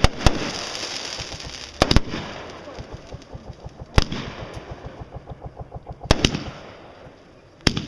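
Aerial fireworks going off: five sharp loud reports a second or two apart, two of them doubled, with a fast run of small crackling pops between them that fades out.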